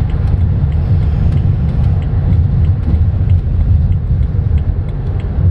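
Low rumbling drone heard inside a 2010 BMW 328i rolling at about 15 to 20 mph, the speed-dependent noise that the owner hears mainly from the driver's floorboard. Its cause is not found: new balanced tires, the driveshaft, carrier bearing and universal joints have all been checked and ruled out, and there is no vibration with it.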